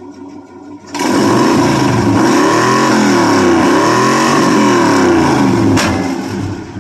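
1971 Chevy C20's small-block 350 V8 revved hard through its exhaust for about five seconds, the pitch swinging up and down, with one sharp backfire bang near the end before it drops back to idle.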